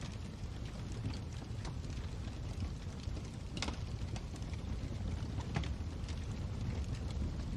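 Fire burning in a fireplace: a steady low rumble of flames with scattered sharp crackles and pops, the loudest about three and a half seconds in.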